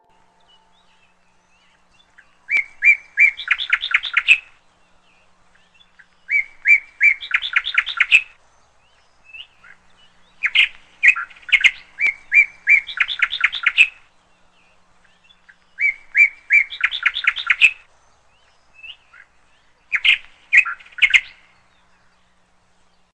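A songbird singing the same short phrase about five times, with pauses between. Each phrase starts with a few spaced notes and speeds up into a rapid trill, and single chirps come in the gaps.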